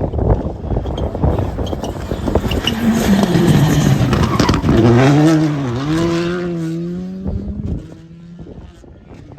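Rally car passing at speed with loud crackling from the exhaust. The engine note drops as the car brakes for a corner, then rises steadily as it accelerates away. The sound cuts off abruptly near the end.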